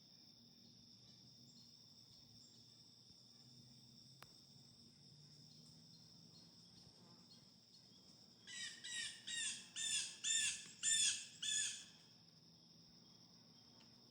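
A bird gives a run of about seven loud calls, roughly two a second, each rising and falling in pitch and getting louder toward the end. Under it runs a steady high-pitched drone of crickets and other insects.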